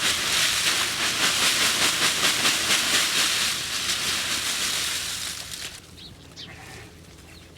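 Steady loud hissing that fades out about six seconds in, followed by a few faint high chirps.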